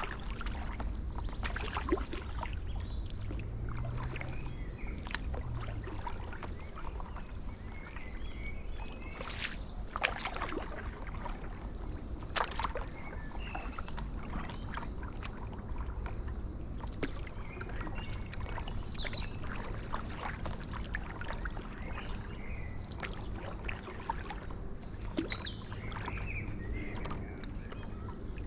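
Stand-up paddleboard paddle strokes dipping and splashing in canal water, over a steady low rumble. Small birds chirp now and then.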